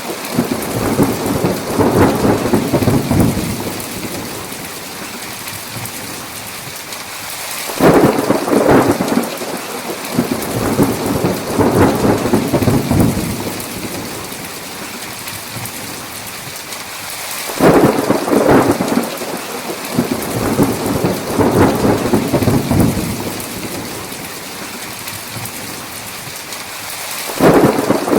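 Steady heavy rain with rolls of thunder: a rumble is fading at the start, and new ones break suddenly about eight seconds in, again near the middle and again near the end, each rolling on and dying away over several seconds.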